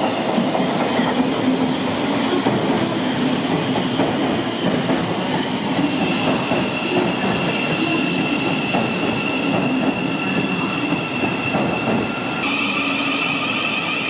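Thameslink electric train running on the rails, with a steady rumble and a high squeal of the wheels that sets in about six seconds in and grows louder near the end.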